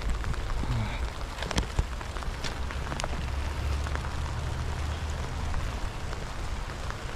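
Heavy rain falling steadily, with scattered sharp clicks of drops landing close by.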